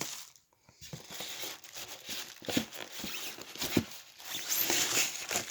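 Packaging rustling and crinkling, with small clicks and knocks, as parts are pulled out of a ceiling-fan box. It starts after a brief hush and grows louder near the end.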